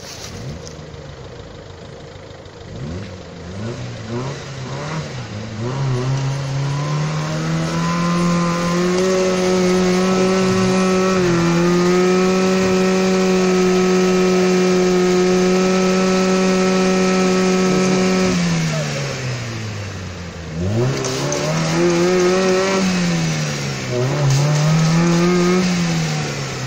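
A 4x4 SUV's engine revving hard while it drives through deep mud. The revs climb over several seconds and hold high and steady for about nine seconds, then drop off suddenly. They rise and fall twice more near the end.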